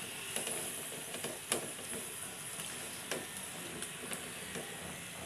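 Flower pitha pastries sizzling as they deep-fry in hot oil, a steady hiss, with a slotted spatula knocking and scraping against the pan several times as the pastries are lifted out. The sharpest knock comes about a second and a half in.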